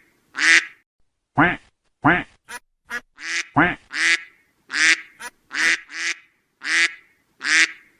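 Duck quacking repeatedly: a quick series of about a dozen short quacks.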